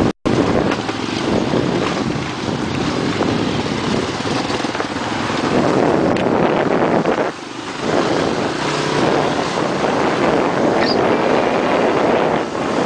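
Dirt bike riding off-road, its engine noise mixed with heavy wind buffeting on the microphone; the sound drops briefly about seven seconds in.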